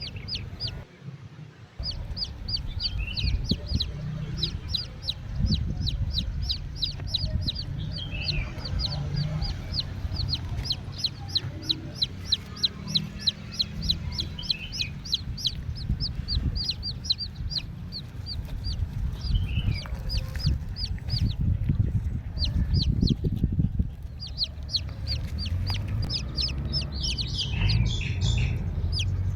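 Birds calling: a rapid, regular high-pitched peeping about three times a second, with a few lower, falling calls now and then, over a low rumble.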